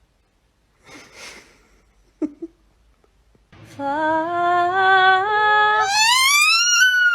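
A long drawn-out voice-like call, its pitch climbing in steps and then steeply for about three seconds before sliding down near the end. A short sharp sound comes just before it.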